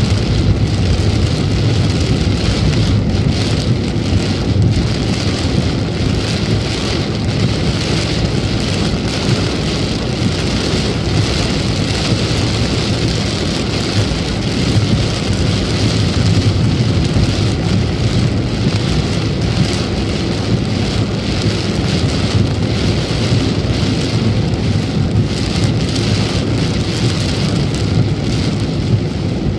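Heavy rain beating on a moving car, heard from inside the cabin: a steady loud hiss of rain over a constant low rumble of road and wind noise.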